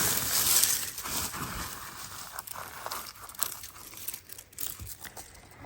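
Hands rummaging through a bed of grass clippings to pull out potatoes: irregular rustling with small clicks and snaps, louder in the first second or so.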